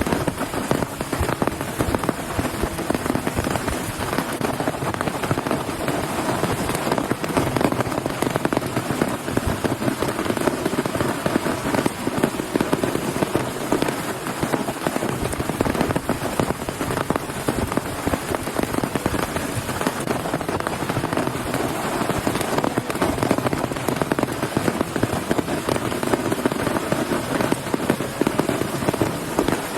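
Heavy rain falling steadily, a dense crackling patter of countless drops striking a surface.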